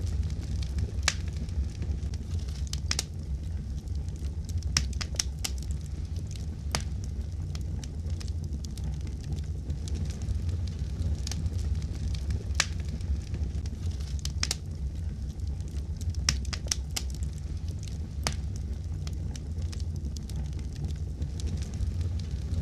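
Fireplace fire crackling: a steady low rumble with irregular sharp pops and snaps.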